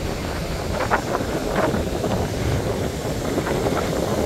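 Wind buffeting the microphone, with the steady wash of ocean surf beneath it.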